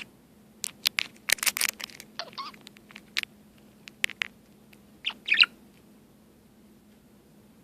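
A budgie pecks and clicks at a toy Star Trek original-series communicator: a quick cluster of sharp plastic clicks, then two short warbling chirps a few seconds apart.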